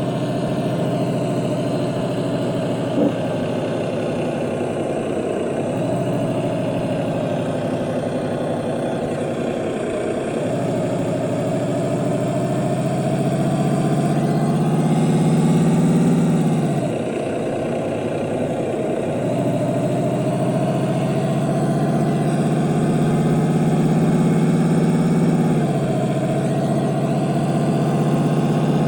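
Heavy truck diesel engine running under way, its pitch climbing slowly and then dropping sharply several times as it changes gear, with the clearest drop about halfway through.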